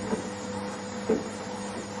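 Washing machine running: a steady motor hum with two short knocks about a second apart.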